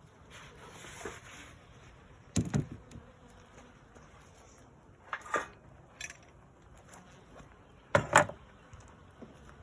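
Honey bees buzzing at the hive, broken by three loud double knocks, about a second in, midway and near the end, the last the loudest.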